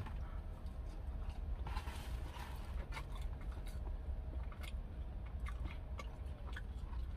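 A person chewing a mouthful of French fries, with scattered small mouth clicks and smacks over a low steady hum.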